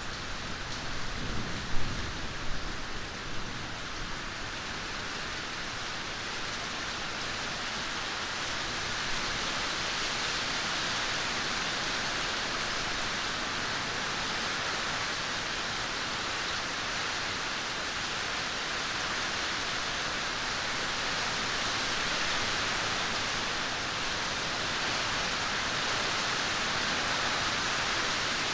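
Steady rain falling, an even hiss that continues throughout. A few louder low thuds come about two seconds in.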